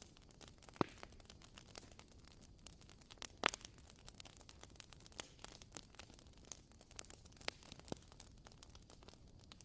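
Wooden-wick candle crackling: quiet, irregular small crackles, with louder sharp pops about a second in and about three and a half seconds in.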